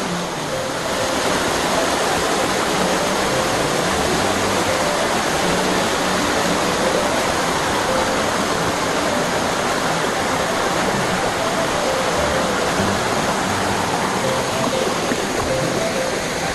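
Mountain-stream waterfall: water falling and rushing with a steady, even rush.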